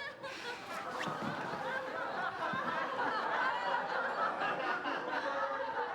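A crowd of many people murmuring and snickering together, a steady din of overlapping voices and laughter.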